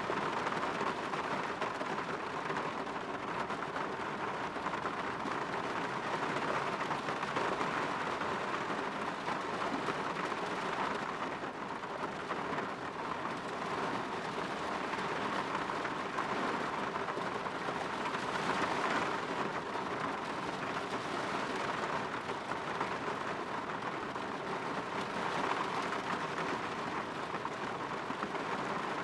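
Steady rain falling on and against a window, an even patter that swells and eases slightly now and then.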